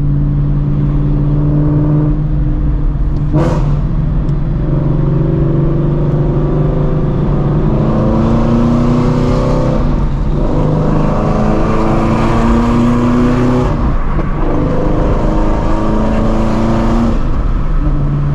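Straight-piped 2016 Ford Mustang Shelby GT350's flat-plane-crank V8, with long-tube headers, running steadily and then pulling through the gears: the exhaust note climbs and drops back at each shift, three times in the second half. A short sharp click comes about three and a half seconds in.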